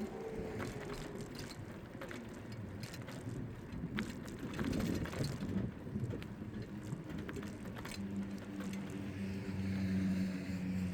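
City traffic ambience heard from a bicycle on the move: steady road and wind noise with scattered clicks and rattles. From about eight seconds in, the steady hum of a motor vehicle's engine joins and grows a little louder.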